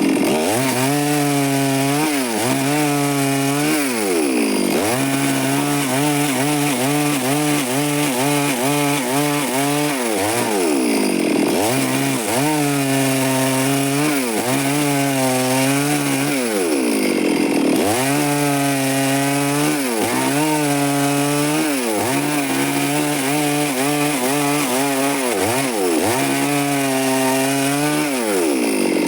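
Stihl chainsaw running hard while cutting wood. Its engine pitch dips and recovers over and over as the chain bites, with a few deeper drops spread through the cut.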